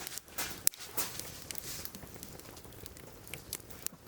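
Wood fire in a firewood grill crackling, with irregular sharp clicks and one louder snap a little under a second in.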